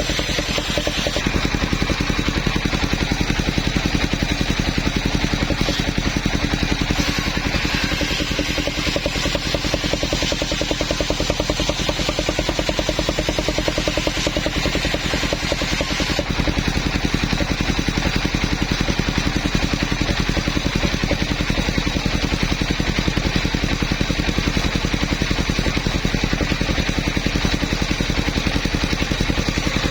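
Engine of a portable sawmill running steadily at a fast even beat, its upper sound changing about a second in and again about halfway through.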